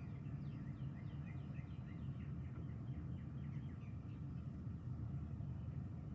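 Birds chirping in quick, repeated short downward-sliding notes, over a steady low background noise.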